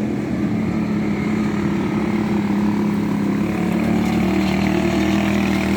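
A vehicle engine running with a steady drone.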